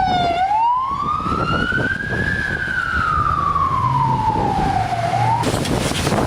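Emergency vehicle siren wailing: the pitch falls briefly, rises slowly, falls slowly again, then cuts off suddenly about five seconds in. A steady rushing noise runs underneath.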